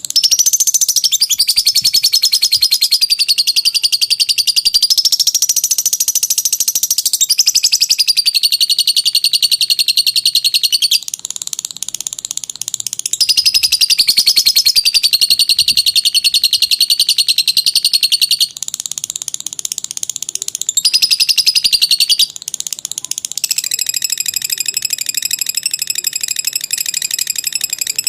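Lovebird 'ngekek': long, rapid, unbroken chattering trills, high-pitched, in bouts. The first lasts about eleven seconds and later ones are shorter, with brief lower chatter between them. Near the end the chatter turns steadier and more even.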